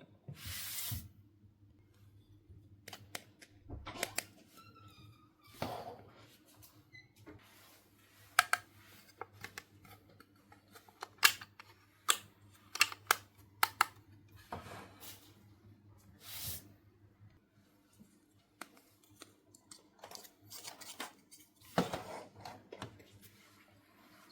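Small plastic toy pieces and packaging being handled up close: irregular light clicks, taps and brief rustles.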